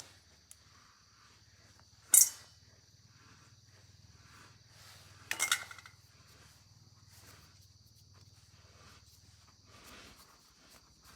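A sharp knock about two seconds in and a quick run of clicks around five and a half seconds, over a steady low hum and a steady high-pitched drone.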